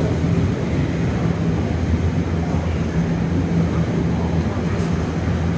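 Container freight train's wagons rolling past close by, a steady rumble of wheels on the rails.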